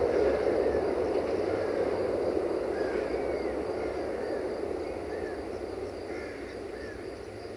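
Diesel-hauled passenger train rolling away across a steel truss bridge, its rumble fading steadily. Birds call in short chirps through it.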